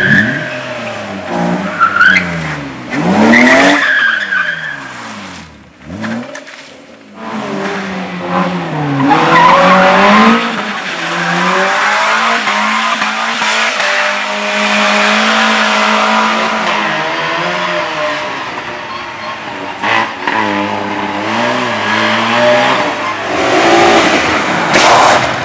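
Race car engine revving hard through a slalom, its pitch repeatedly climbing and dropping with throttle lifts and gear changes, with tyres squealing and skidding through the turns. The engine drops away briefly about six seconds in, then picks up again.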